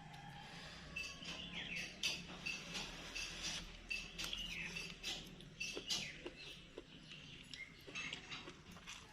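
Close-miked eating sounds: wet chewing and lip-smacking in a quick, irregular run of short chirpy smacks and clicks.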